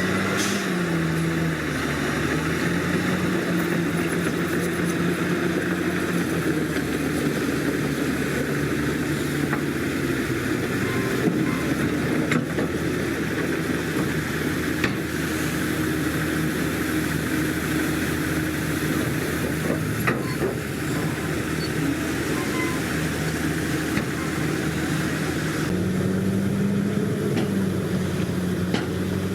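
Komatsu D61PX bulldozer's diesel engine working under load, its note rising and falling as the throttle changes, near the start and again near the end. A few short clanks sound in the middle.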